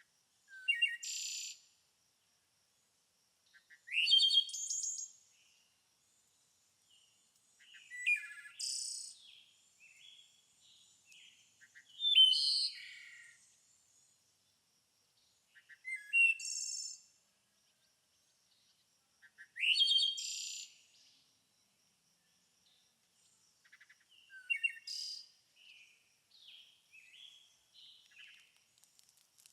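A songbird singing short, high, complex phrases about a second long, repeated roughly every four seconds, with softer chirps near the end.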